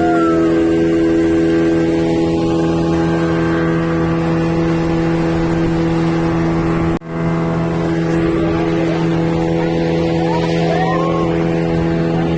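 Motorboat engine running at a steady speed, a constant pitched drone, with a brief break about seven seconds in.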